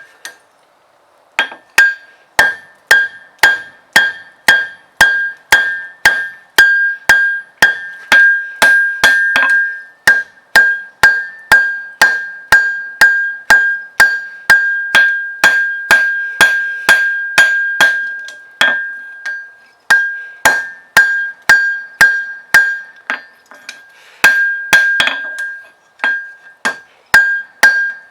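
Blacksmith's hammer striking steel on an anvil in a steady rhythm of about two blows a second, each blow leaving a clear, high ring. The hammering starts about a second and a half in and pauses briefly twice.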